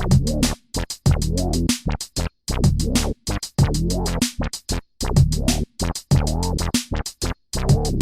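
Electronic music in choppy, stuttering bursts: low droning tones and drum-machine-like hits are cut off and restarted abruptly, with dead silences between the fragments several times a second.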